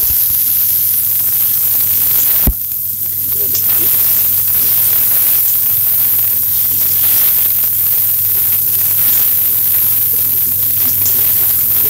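Malabar spinach (pui shaak) stems sizzling steadily in hot mustard oil in a kadhai as they are fried, with one sharp knock about two and a half seconds in.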